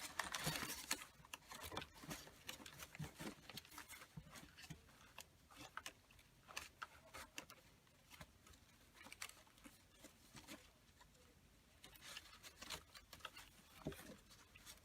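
Faint rustling and light irregular clicks of paper pieces and craft items being handled while rummaging through a bin.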